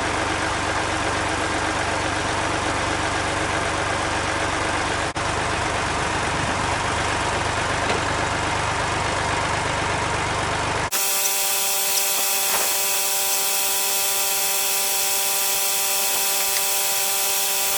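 An engine running steadily. After a cut about eleven seconds in, it gives way to a steady whine of a small electric motor with several fixed tones.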